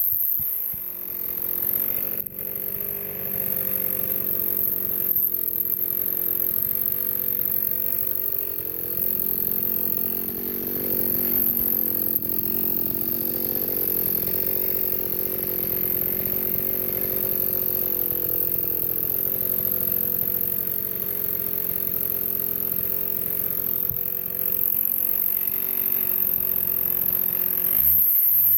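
Two-stroke chainsaw running at high throttle while cutting through a log, its pitch dipping and recovering under load.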